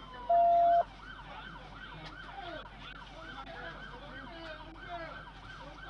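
Police car sirens: a wail sweeps down and gives way to a fast yelp, rising and falling about three times a second. Near the start, a loud steady beep lasts about half a second.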